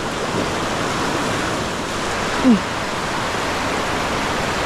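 Steady rush of river current, an even hiss of flowing water, with one short falling squeak about halfway through.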